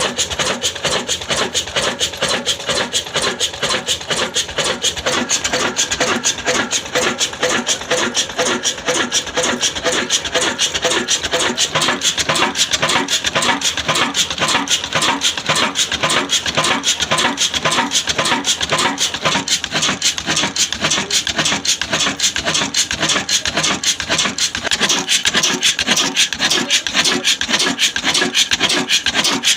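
Old 18 HP diesel engine running steadily, driving a wood-cutting saw machine, with a rapid, even rasping rhythm that grows somewhat louder about twelve seconds in.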